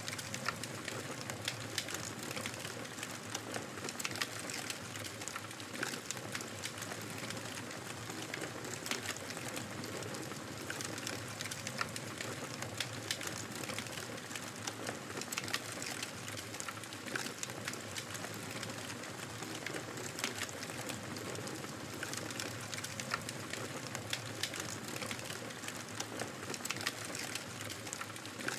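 Wood fire burning in a fireplace: a steady hiss of flames with frequent small, sharp crackles and pops scattered throughout.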